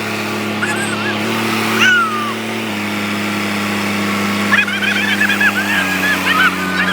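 Tractor's diesel engine running steadily, its engine speed shifting slightly a few times. Birds twitter over it, in a busy run of chirps near the end.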